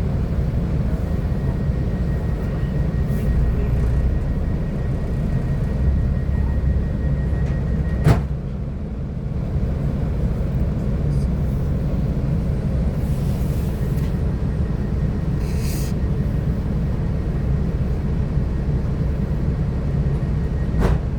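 Steady low rumble inside a Class 172 diesel multiple unit, from its underfloor diesel engine and running gear. A single sharp click comes about eight seconds in, and another near the end.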